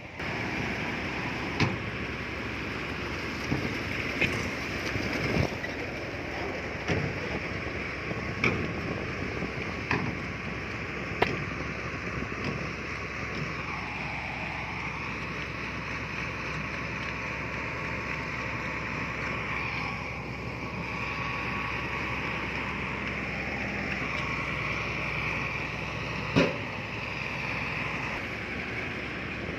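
Diesel engine of heavy earthmoving machinery working, its pitch dipping and recovering as the load changes, with several sharp metallic clanks, the loudest near the end.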